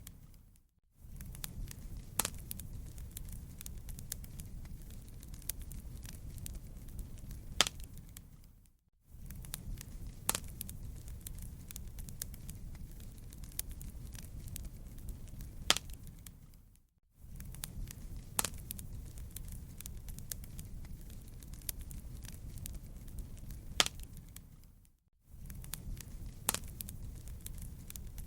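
Wood fire in a fireplace crackling, with frequent sharp pops over a low rumble. The sound dips out briefly about every eight seconds, as a looped recording would.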